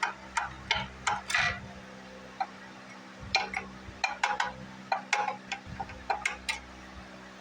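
Light, irregular metal taps on a Briggs & Stratton engine's crank gear, gingerly working it off a rust-stuck crankshaft: a quick cluster in the first second and a half, then a denser run of taps from about three seconds in. A steady low hum runs underneath.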